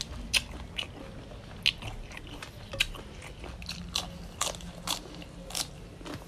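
Close-miked eating: crisp bites and chewing of raw cucumber and lettuce, a sharp crunch roughly every half second, about ten in all.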